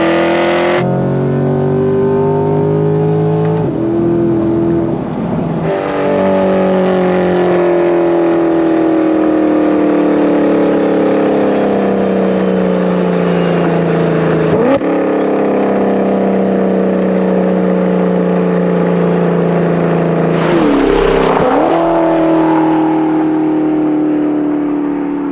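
2023 C8 Corvette's 6.2-litre V8 running through long-tube headers, factory catalytic converters and a stainless cat-back exhaust, driven on the street. The revs rise and fall, with sudden jumps in pitch at several gear changes and throttle blips.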